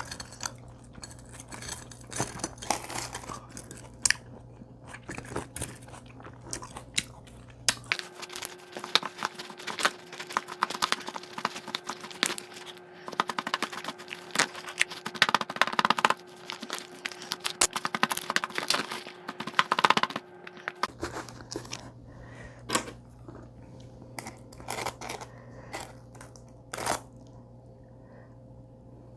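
Close-miked eating: chewing and crunching of food in dense runs of small crackling bites. The background hum shifts about eight seconds in and again near twenty-one seconds, where the clips are cut together.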